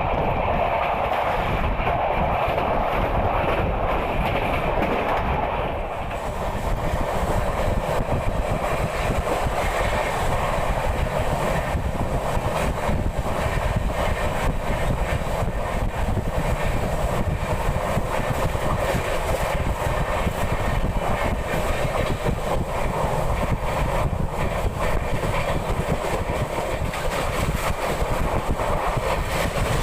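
Netravati Express passenger train running along the line: a steady rumble of the coach with wheels clicking over the rail joints. The sound turns brighter and hissier about six seconds in.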